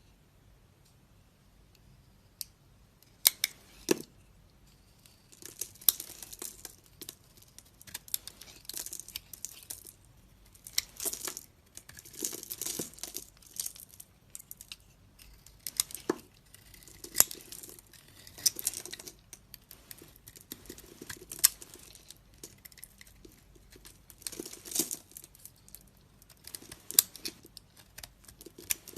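A blade carving and cutting a bar of dry soap: crisp scraping and crumbling strokes in bouts of a second or two, with sharp clicks in between. It begins about three seconds in.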